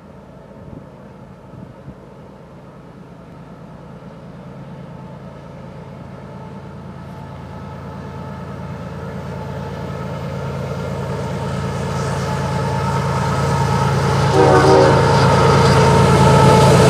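Canadian Pacific freight train led by GE ES44AC diesel locomotives approaching. The engines' low drone grows steadily louder, and the lead locomotive's horn sounds near the end.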